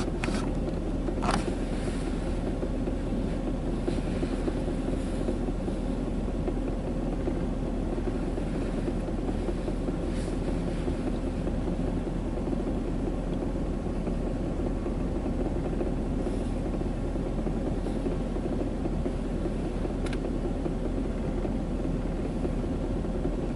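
Ryko Softgloss Maxx automatic car wash running on a car in the bay, a steady mechanical drone heard from outside.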